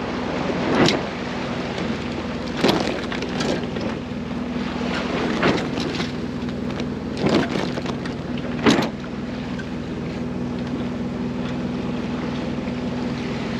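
Small sailboat's inboard engine droning steadily under motor-sail, with about six louder whooshing surges of the following seas at irregular intervals.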